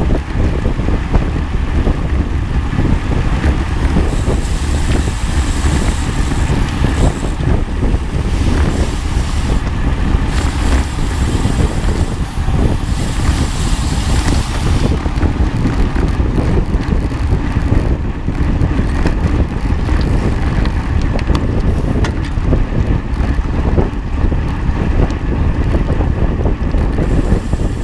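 Heavy wind buffeting the microphone: a loud, steady, low rumble.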